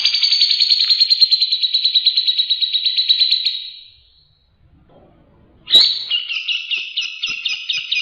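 Grey-cheeked bulbul (cucak jenggot) singing in two long, rapid trills of evenly repeated notes. The first fades out after about three and a half seconds; the second starts with a sharp note about six seconds in.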